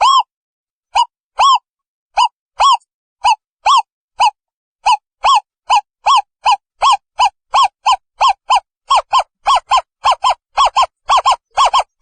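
Asian barred owlet calling: a series of short whistled hoots, each rising and falling in pitch, at first about one a second and speeding up to several a second by the end.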